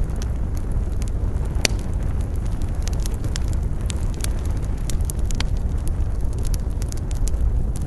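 Campfire crackling, with sharp pops of burning wood scattered irregularly, the strongest about two seconds in, over a steady low rumble of wind.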